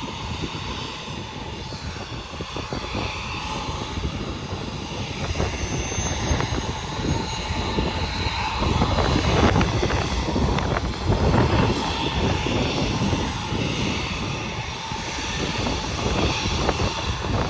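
Embraer E175 regional jet's turbofan engines idling with a steady whine while the aircraft waits to taxi, under heavy wind buffeting on the microphone that gusts louder from about halfway through.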